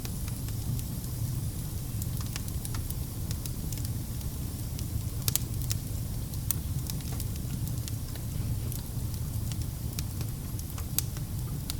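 Wood fire burning in a fireplace: a steady low rumble with scattered sharp crackles and pops, a few of them louder snaps.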